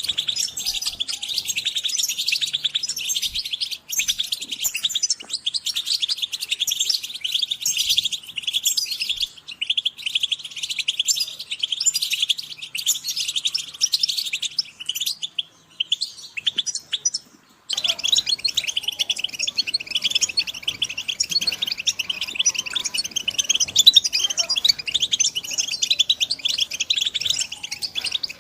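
A group of European goldfinches twittering and calling together in rapid, dense, high chirps. About two-thirds of the way through there is a brief lull, then an abrupt change to a recording with more background hiss under the chirping.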